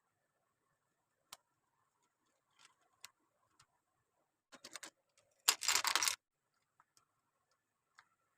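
Lego bricks being handled and snapped together: scattered single plastic clicks, a quick run of clicks, then a louder rattle of loose pieces about five and a half seconds in.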